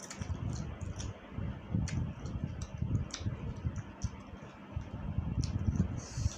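Chewing and mouth sounds of a person eating spicy noodles: irregular soft low thuds of chewing, with small wet clicks and smacks scattered through.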